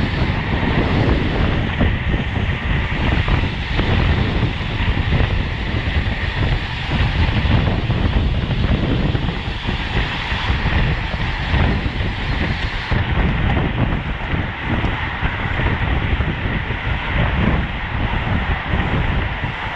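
Wind rushing over the microphone at road-race riding speed, a steady loud rushing noise.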